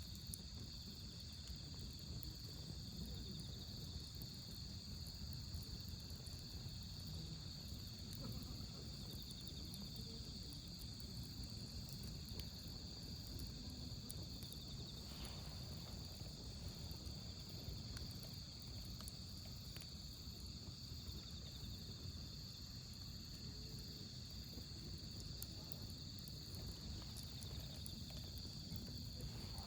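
Crickets singing in a steady high trill, over the low rumble of a wood fire burning, with a few faint crackles from the burning wood.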